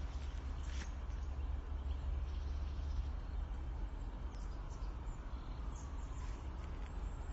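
Scattered footsteps on a forest path, a few soft crunches, over a steady low rumble.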